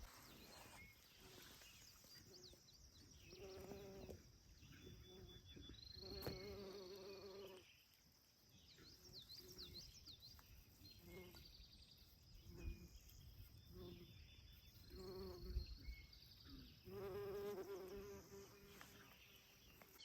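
A flying insect buzzing in short passes every second or two, with faint bird chirps and whistles over a quiet field.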